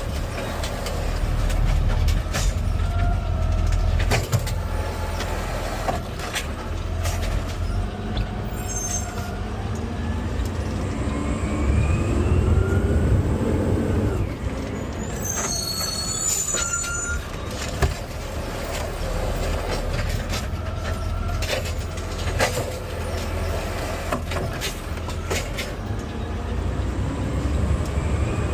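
Garbage truck running in the cab as it drives on, its engine rumbling low and rising in pitch as it picks up speed. Rattles and knocks sound through it, with brief high squeals twice.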